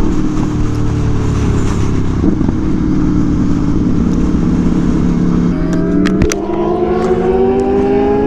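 Aprilia Tuono V4 1100 motorcycle's V4 engine running at speed on track, with wind rush. The engine pitch holds steady, dips about five and a half seconds in with a few sharp clicks, then climbs steadily as it accelerates.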